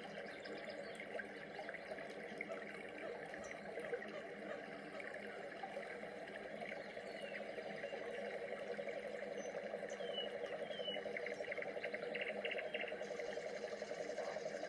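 Rainforest animal chorus: a dense, fast-pulsing trill with scattered short chirps above it, growing louder about eight seconds in.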